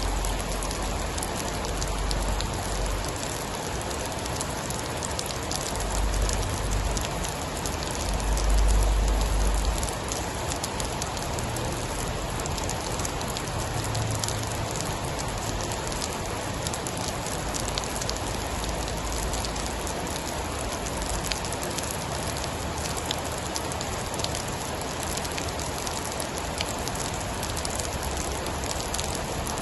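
Steady heavy rain, a dense even hiss of falling drops with fine patter. Low rumbling swells rise under it a few times, the strongest about nine seconds in.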